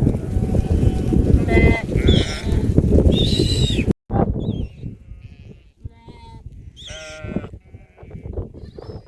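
Bleating from livestock, several calls, over a heavy low rumble for the first few seconds. The sound breaks off abruptly about four seconds in, and the bleats after it are quieter.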